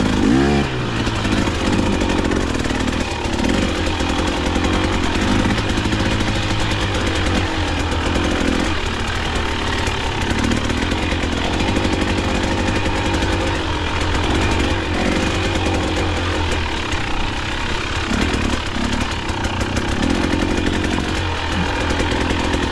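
KTM dirt bike engine running while being ridden off-road, its pitch rising and falling with the throttle, with a quick rev just after the start.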